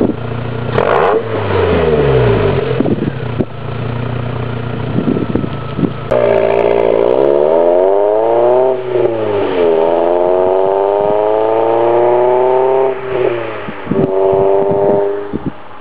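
2001 MGF 1.8i's K-series four-cylinder engine through a Mike Satur Daytona sports exhaust, with a K&N 57i induction kit. It is revved up and down in quick blips, then climbs through the revs in two long pulls with a short drop between them, as in accelerating through a gear change. It holds a steadier note for a moment before the sound falls away near the end.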